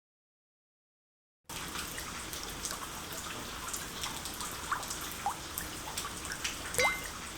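Silence for about a second and a half, then steady rain falling, with scattered drips and a few short rising plinks of water drops.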